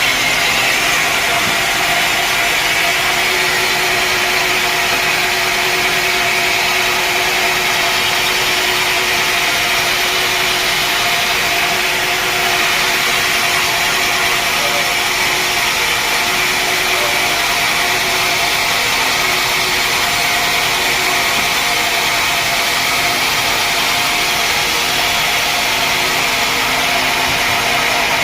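Sawmill saw cutting through a log: a steady, unbroken running and cutting noise with a faint steady hum.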